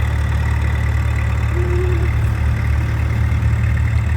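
Large engine idling steadily with a deep, even rumble and a faint steady whine above it.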